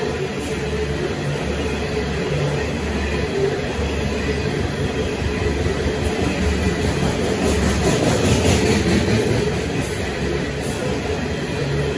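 A long train of coal hopper wagons rolling past at close range: a steady rumble and clatter of wheels on rail, a little louder about eight seconds in.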